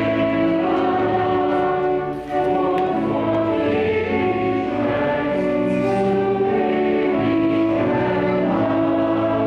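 A choir singing a slow piece in held chords, with a short break between phrases about two seconds in.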